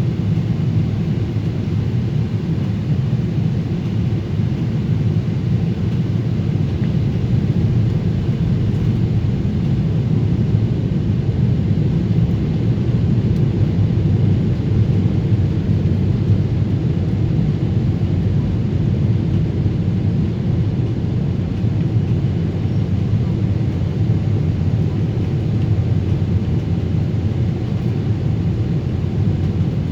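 Steady low rumble of a Boeing 777-300 airliner in flight, its engines and airflow heard from inside the cabin during the descent toward landing.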